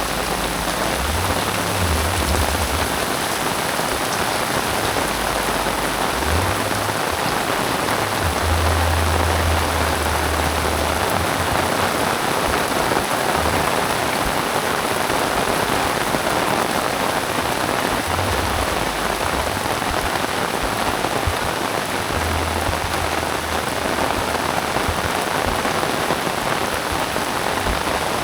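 Heavy rain falling steadily, a dense, even hiss of drops on surfaces. A low rumble comes and goes beneath it several times.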